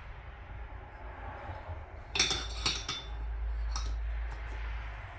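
Small metal parts clinking and knocking together as they are handled, a quick cluster of clinks about two seconds in and a few lighter ticks later, over a steady low hum.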